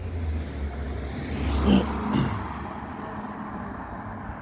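A road vehicle driving past: its low engine and tyre rumble swells to its loudest just under two seconds in, then fades.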